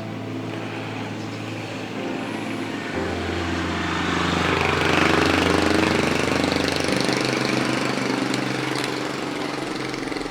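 A motor vehicle engine passing by, swelling to its loudest about halfway through and then fading, with background music underneath.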